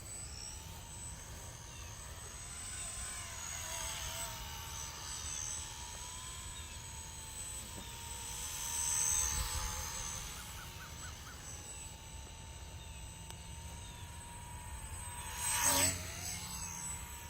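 Esky 300 V2 mini RC helicopter in flight: the steady whine of its brushed electric main and tail motors and rotor, its pitch wavering slowly as the throttle and the breeze change, over a low rumble of wind on the microphone. It swells louder about nine seconds in, and there is a brief loud rush near the end.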